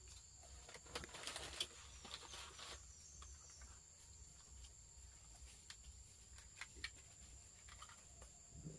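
Near silence with quiet rural ambience: a steady high insect drone, scattered light clicks, and a brief rustling patch about a second in.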